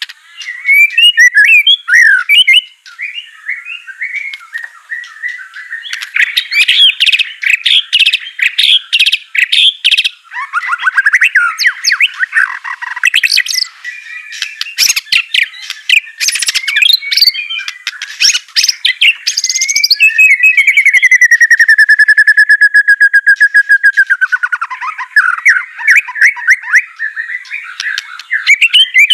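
White-rumped shama (murai batu) singing a long, varied song of quick whistled phrases mixed with sharp clicking notes, with a fast even trill about twenty seconds in that lasts some four seconds.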